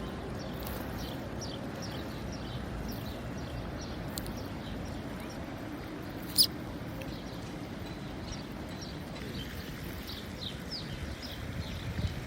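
Sparrows chirping: a run of short, high chirps, several a second, over a steady low outdoor background noise, with one louder sharp sound about six seconds in.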